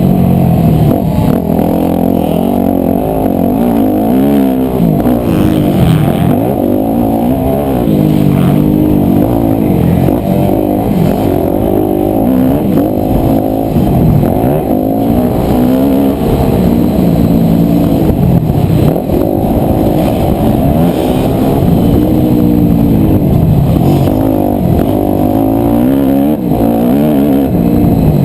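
250cc four-stroke motocross bike engine revving hard and backing off over and over, its pitch climbing and dropping every second or two through gear changes and turns. Heard muffled, with little treble, as from a helmet- or bike-mounted camera.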